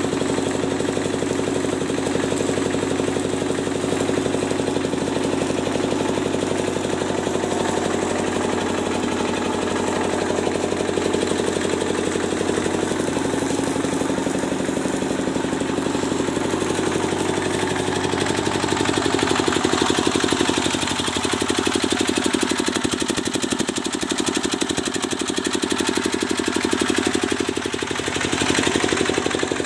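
A machine running steadily with a rapid pulsing knock, its pitch shifting a little about two-thirds of the way through and again near the end.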